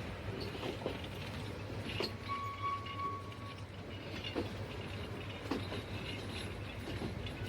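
Train running on rails, heard faintly: a steady low hum with scattered clicks and knocks. About two seconds in, a single steady high tone lasts about a second and a half.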